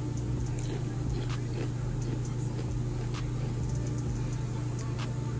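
A Doritos Fiery Mango tortilla chip being bitten and chewed, a few faint crunches scattered over a steady low hum.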